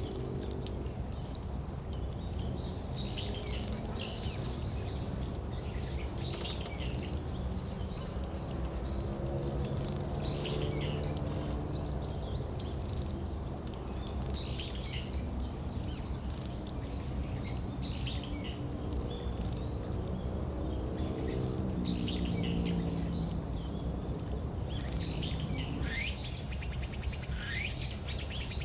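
An insect trills steadily on one high note while small songbirds give short, falling calls every second or two, with a few sharper calls near the end. A low drone comes and goes beneath, over a steady rumble.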